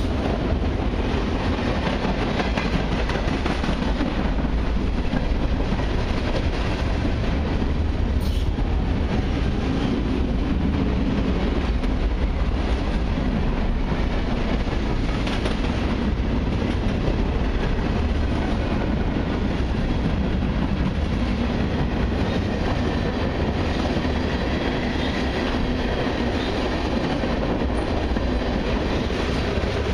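Freight train cars, autoracks and then tank cars, passing close by with their steel wheels rolling on the rails in a steady rumble that holds throughout.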